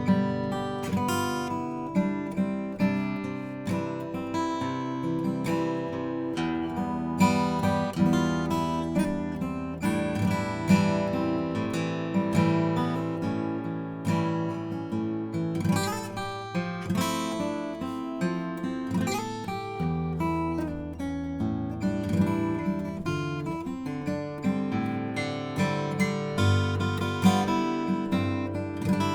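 Mentreel HB-8 DC BK 41-inch acoustic guitar, with a spruce top and mahogany back and sides, played fingerstyle: a continuous run of plucked notes and chords ringing over a bass line.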